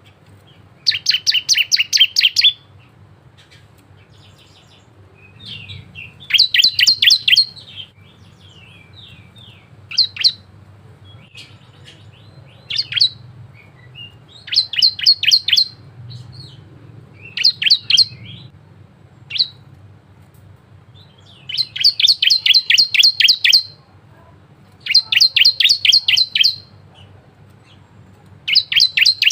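Cisem (ciblek, a prinia) singing in repeated rattling phrases of rapid, evenly spaced high notes, each phrase lasting one to two seconds, with short single calls in the gaps.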